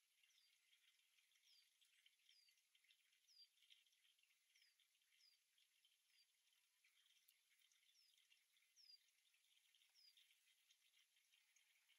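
Faint birdsong: short high notes sliding downward, repeated roughly once a second, over a soft chatter of other birds.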